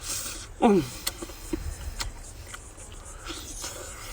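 Quiet eating sounds with a few sharp clicks. About half a second in, a man gives a brief vocal sound that falls in pitch, the loudest thing here.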